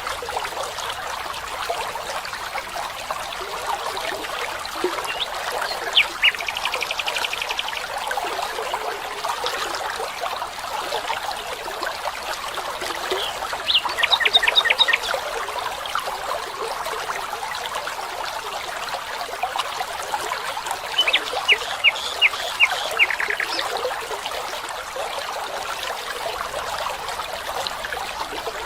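Water trickling and running steadily, with a bird calling three times in short, quick runs of sharp notes.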